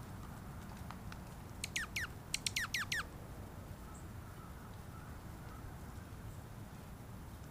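A bird calling: a quick run of about seven sharp notes, each sweeping steeply down in pitch, a little under two seconds in, over a steady low rumble.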